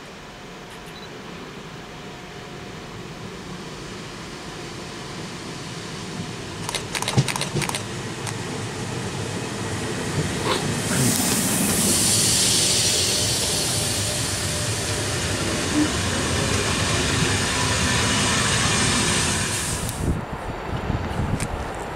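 Passenger train running in alongside the platform, getting louder as it nears, with a cluster of sharp clicks about seven seconds in. About halfway through a loud, steady hiss sets in over the train noise and cuts off suddenly near the end.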